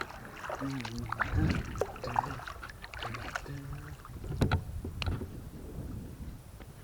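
Kayak paddling: the paddle dips and splashes on alternate sides, with a few sharp knocks of the paddle against the hull or paddle shaft, the loudest about a second and a half in and again past four seconds.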